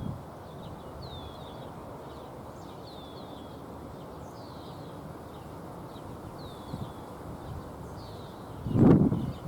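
A bird calling over and over, short falling chirps about once a second, over steady outdoor background hiss. Near the end a loud low rumbling bump cuts in.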